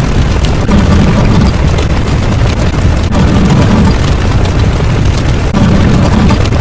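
Sound effects of explosions layered into one continuous loud, distorted roar. Deep booming swells come and go every couple of seconds.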